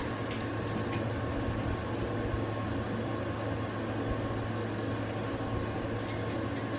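Steady mechanical hum from a running appliance, with a low drone and a faint high tone; a few light clicks near the end.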